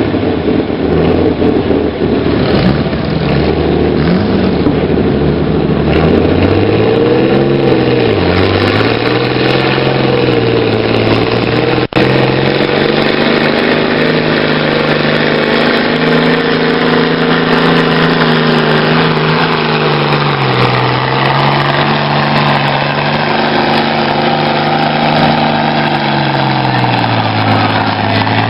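Tractor-pull tractor's engine running hard, its revs repeatedly rising and sagging every few seconds as the load comes on and eases. There is one momentary break in the sound about twelve seconds in.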